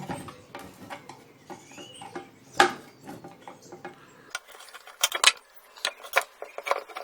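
Metal parts of a copper and brass lamp clinking and knocking as it is taken apart by hand: scattered clicks, one louder knock about two and a half seconds in, and a quick run of clicks after five seconds.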